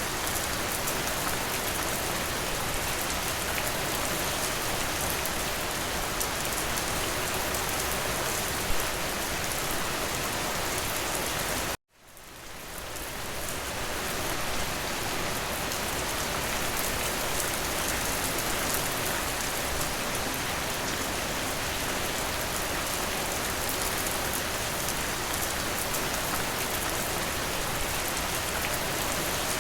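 Steady rain falling, an even dense hiss. About twelve seconds in it cuts out abruptly and fades back up over about two seconds, the seam of a looped recording.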